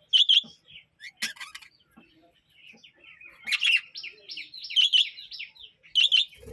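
Budgerigars (pet budgies) in a colony chirping and chattering: loud short chirps near the start, then a run of rapid warbling chatter from about halfway in.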